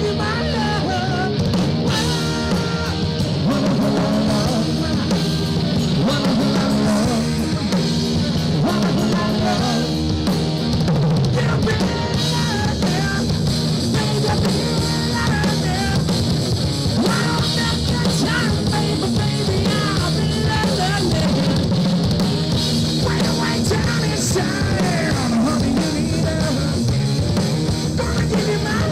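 Live rock band playing: electric guitar, bass and drum kit, with a singer's voice over them.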